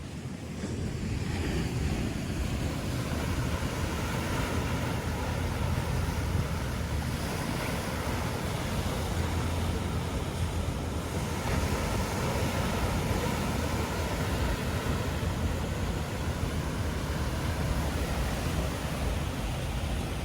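Ocean surf washing in against the cliffs, a steady rushing noise that swells over the first couple of seconds and then holds, with wind buffeting the microphone.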